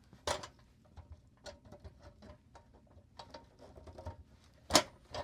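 Side cutters working the wheel retaining clip off the axle of a pressed-steel toy truck: a sharp click early, light metallic ticks and scraping, then a loud sharp snap near the end as the clip is cut.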